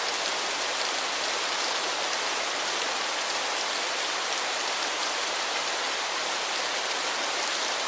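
Steady, even hiss of a waterfall's falling water, mostly bright with little low rumble, unchanging throughout.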